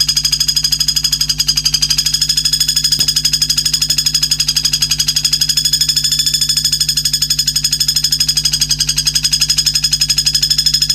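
A monotonous, rapidly pulsing high trill, about ten pulses a second, with a steady low hum beneath it. It is a looped recording played as fill-in song for training white-rumped shamas.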